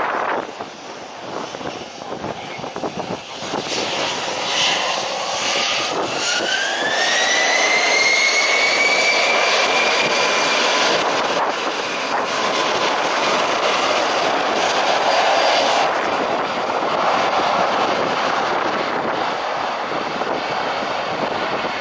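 Jet aircraft engines spooling up, a whine rising in pitch over about five seconds, then running at high power with a loud, steady roar that eases slightly near the end.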